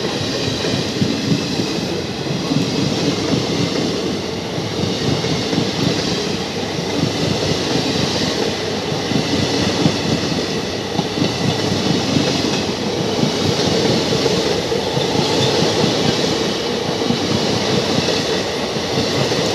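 Passenger train coaches passing close on the adjacent track: a loud, steady rumble of steel wheels on rail with a fast clickety-clack of the wheels over rail joints.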